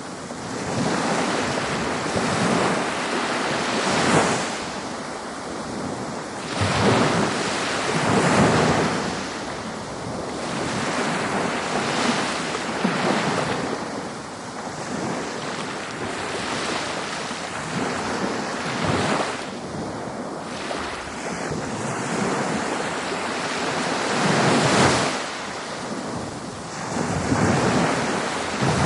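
Ocean waves breaking on a beach: a continuous wash of surf that swells and falls as each wave comes in, every few seconds, with wind buffeting the microphone.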